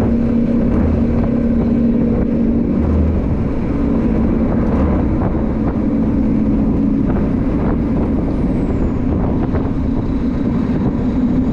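Motor scooter engine running steadily while riding, a continuous drone with rumbling noise underneath; its pitch shifts slightly about seven seconds in.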